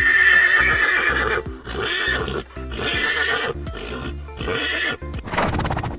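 Horse neighing: one long whinny of about a second and a half, followed by several shorter calls with short gaps between them, over light background music.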